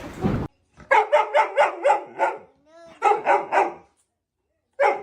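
Dog barking in quick runs of about four to five barks a second, two runs with a short rising whine between them.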